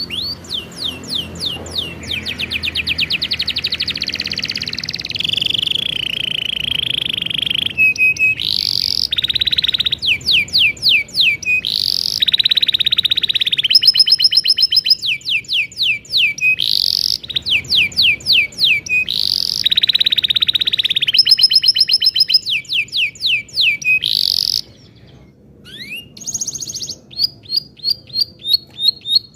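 Domestic canary singing a long, varied song: runs of fast repeated chirps alternating with long buzzing trills (rolls). The song breaks off briefly near the end, then the chirping resumes.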